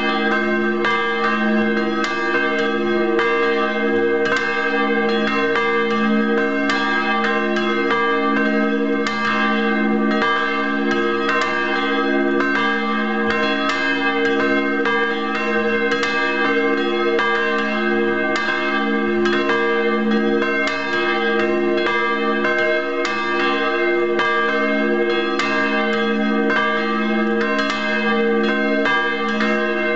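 Motor-swung church bells in an open bell frame, ringing together in an unbroken peal: frequent clapper strokes overlap, with the low hum of the bells ringing on steadily beneath them.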